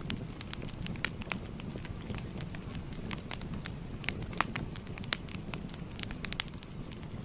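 Wood fire burning with a steady low rumble and irregular sharp crackles and pops, a few louder pops standing out.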